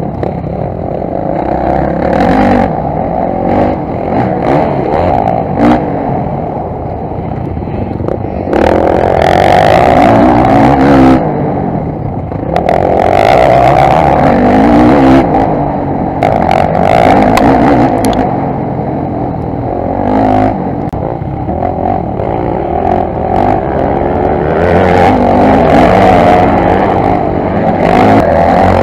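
Dirt bike engine heard up close from a camera on the bike, revving up and down with the throttle as it rides a rough dirt track, with wind noise on the microphone and the clatter of the bike over bumps.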